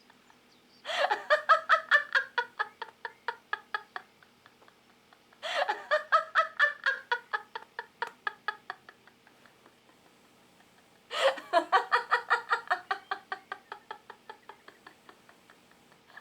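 Three bouts of rapid, pulsing laughter, each starting loud and falling away over a few seconds, over a faint steady hum.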